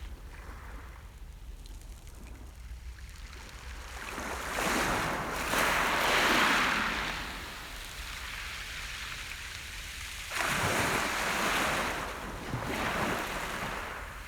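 Sea surf on a beach: two waves break and wash up the shore, one about four seconds in and another about ten seconds in, each rising to a hiss and then drawing back. A steady low rumble sits underneath.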